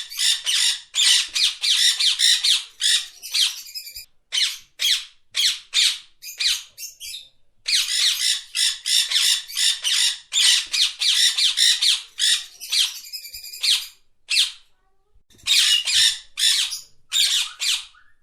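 Parrot squawking: rapid runs of short, harsh, high-pitched calls, several a second, broken by a few brief pauses.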